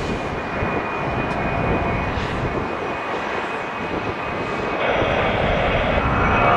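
Jet airliner engine noise, steady, with a thin high whine running through it. A brighter hiss joins about five seconds in and the sound grows louder.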